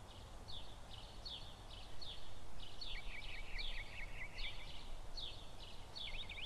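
Small birds chirping: short, high chirps repeated again and again, with a quick run of chirps about three seconds in, over a low steady background rumble.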